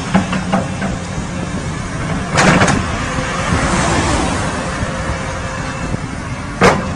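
Steady motor vehicle noise with a low hum, broken by a brief loud noise about two and a half seconds in and a short sharp one near the end.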